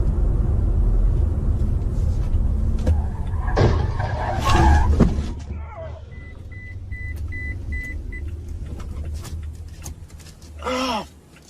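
Car driving with a steady low road and engine rumble, broken by loud crunching noise about four to five seconds in. Then come six short high beeps, a little over two a second, like a car's warning chime.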